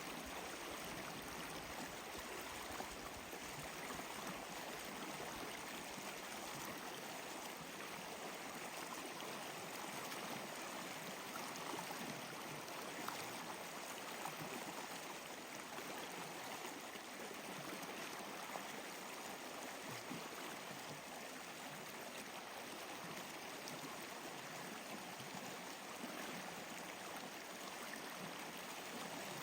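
Water flowing steadily, like a stream, a constant even rush.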